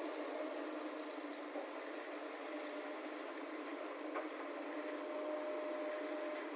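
Diesel engines of excavators and a tipper lorry running with a steady mechanical drone during soil loading. A thin steady whine joins about five seconds in.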